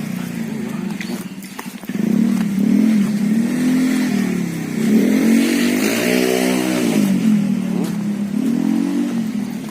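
Motorcycle engine running, its pitch rising and falling again and again as the throttle is worked, with one bigger rev around the middle.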